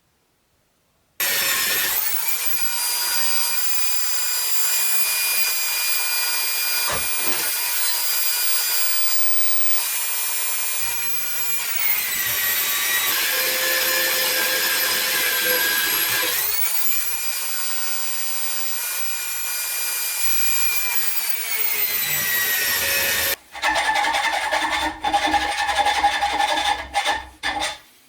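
A 9-inch angle grinder running in its stand, cutting with a high whine that starts about a second in. About halfway through, the pitch sags for a few seconds as the disc is loaded in the cut, then rises again. Near the end the sound changes and cuts in and out abruptly.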